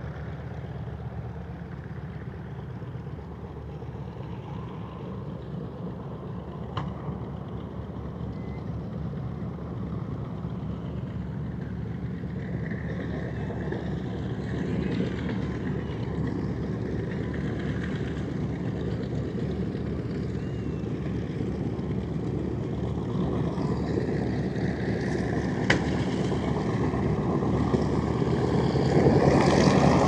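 Twin radial piston engines of a B-25 Mitchell bomber running as a steady low drone that grows gradually louder, loudest near the end.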